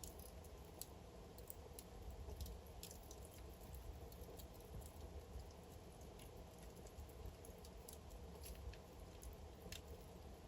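Wood fire crackling in a fireplace: a low, steady burning rumble with scattered sharp pops and snaps of the logs, several a second at times.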